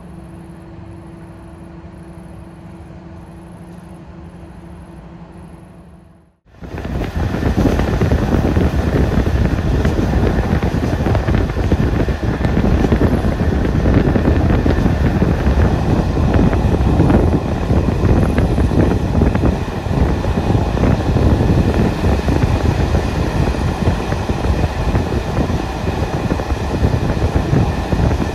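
A quiet steady hum while the train stands still, then, after a sudden cut about six seconds in, the much louder running noise of a ČD A149 passenger coach at speed, heard at an open window: wheels rumbling on the track, with wind rushing in.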